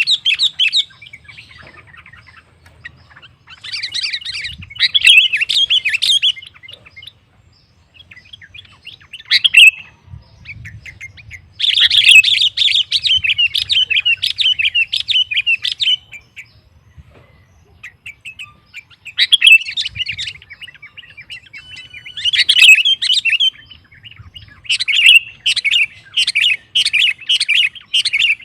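Sooty-headed bulbul (kutilang) singing vigorously in loud, chattering phrases of one to four seconds, about seven of them with short pauses between. It is the kind of full, persistent song used to provoke rival bulbuls into answering.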